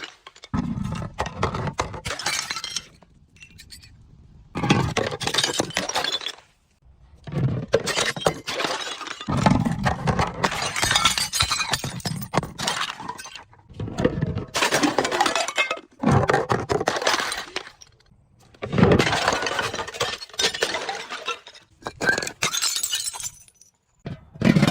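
Glass being crushed and breaking: about eight bursts of dense crunching and crackling, each a second or a few long, with short pauses between.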